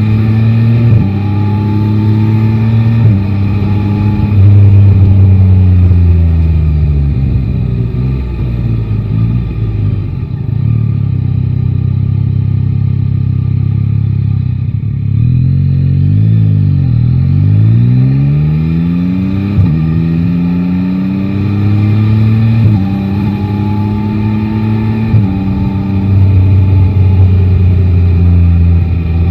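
Yamaha Tracer 9 GT's 890 cc inline three-cylinder engine pulling up through the gears, its pitch rising in steps with a break at each shift. It then rolls off and winds down, and pulls away again through several more upshifts near the end.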